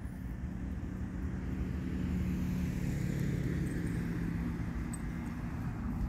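A car driving past, its engine hum and tyre noise swelling to a peak midway and then fading.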